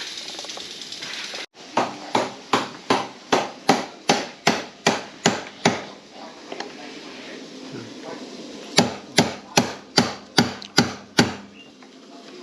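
A hammer striking in steady, evenly spaced blows, about two and a half a second: roughly eleven blows, a pause of a few seconds, then about seven more.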